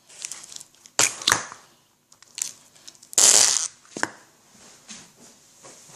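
Pink noise putty squeezed and worked to make fart noises: several short, crackling, airy bursts, the longest and loudest about three seconds in.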